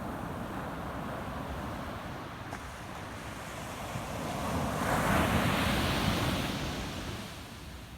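Ocean waves breaking on a sandy beach: a steady wash of surf that swells as a wave breaks about halfway through, loudest a second or two later, then fades as it runs out. A low rumble of wind on the microphone lies underneath.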